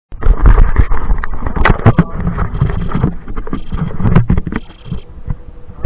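Wind rumble and handling knocks on a body-worn camera microphone, with three short high-pitched buzzing bursts in the second half, each under a second, like an airsoft gun firing short bursts.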